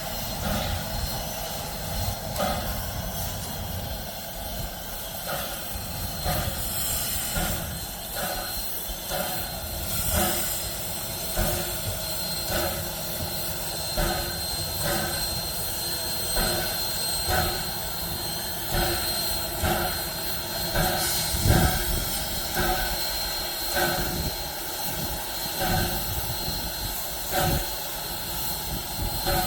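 Ww class steam locomotive 644 working slowly, its exhaust chuffing a little over once a second over a steady hiss of steam.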